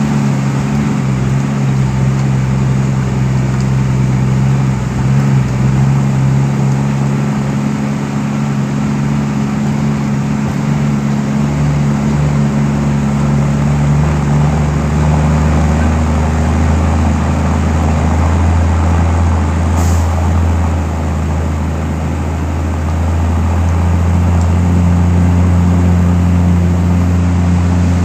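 Heavy diesel engine of mining machinery running steadily under load, its note dropping to a deeper drone about halfway through.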